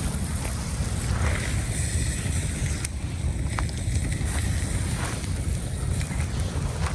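Campfire crackling, a few scattered sharp pops, over a steady low rumble of wind buffeting the microphone.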